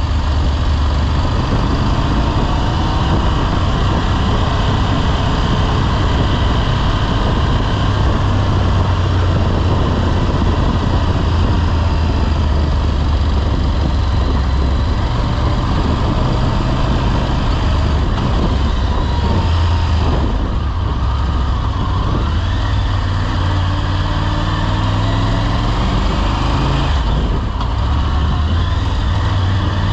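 Motorcycle engine running on the move, under steady road and wind noise; the engine note climbs in pitch several times near the end as the bike accelerates.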